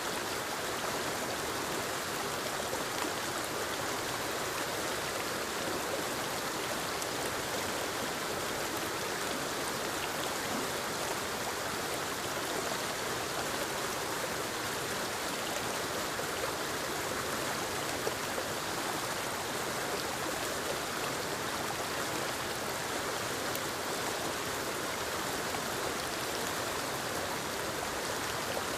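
Forest waterfall and the stream below it: a steady rush of falling and flowing water.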